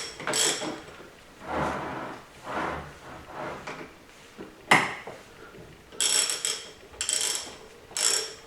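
Bolts being started and turned into a 5R55S transmission's cover by hand: a series of short metal scraping and rubbing sounds, with one sharp metallic click about five seconds in.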